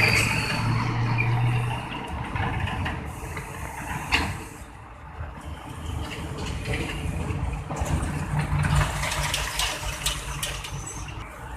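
Heavy trucks and other traffic passing at a road junction. An engine drone fades over the first two seconds, there is a sharp click about four seconds in, and another engine builds up and passes around eight to nine seconds.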